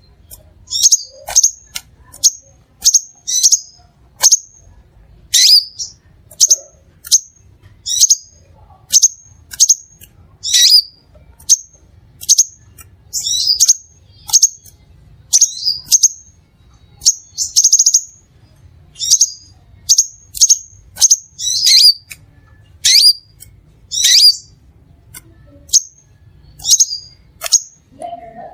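Crimson sunbird calling over and over: short, sharp, high-pitched chips, about one or two a second, some sliding down in pitch.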